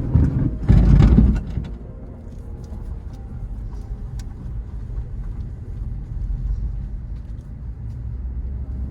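A vehicle's steady low rumble, with a louder rush of noise in the first second and a half and a few light clicks after it.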